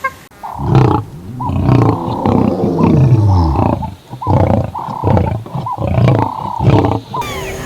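Loud, deep calls from a large animal: long falling calls, then a run of shorter calls about two a second that stops shortly before the end.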